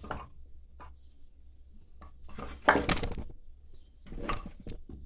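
Split oak firewood logs knocking and clattering against each other, with the loudest clatter about two and a half seconds in.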